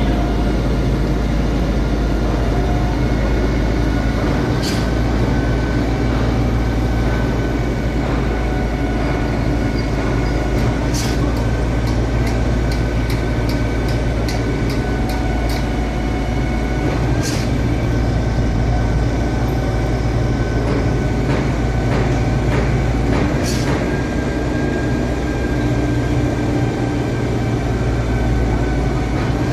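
Concrete pump truck running steadily under load: a heavy diesel rumble with a few steady tones. A run of sharp metallic clicks, about two a second, comes in the middle, and other clicks are scattered through it.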